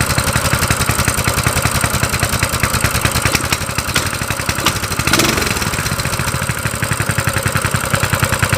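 Coleman CT200U-EX mini bike's small single-cylinder engine running steadily on choke right after firing up on the first pull, its carburetor freshly cleaned and the air filter still off.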